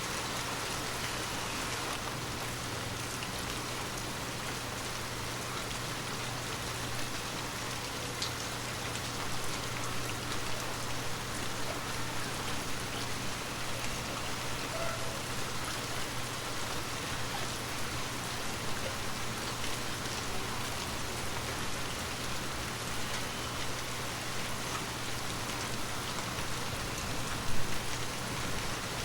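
Water drops pattering steadily on glass, a dense rain-like patter of small ticks over a faint low hum, with one louder tap near the end.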